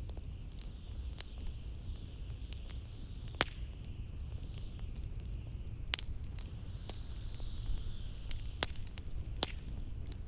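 A wood fire in a fireplace crackling, with irregular sharp pops, the loudest about three and a half and six seconds in. Beneath it runs a steady low rumble and a blizzard's wind hiss that swells and fades, strongest around seven seconds in.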